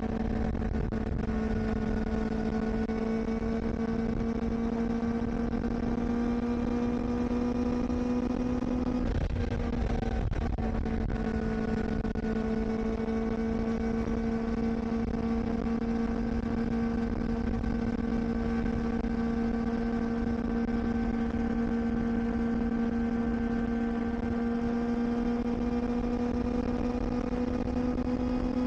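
Kawasaki Ninja ZX-4RR's 399 cc inline-four engine running at steady riding revs, its pitch creeping slowly upward. About nine seconds in it breaks off briefly and picks up again a little lower, as at an upshift. Wind rumble on the microphone runs underneath.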